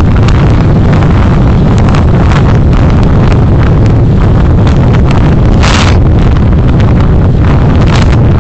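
A car driving, heard as a loud, steady low rumble of road and engine noise with wind, with scattered light clicks and a brief hiss about five and a half seconds in.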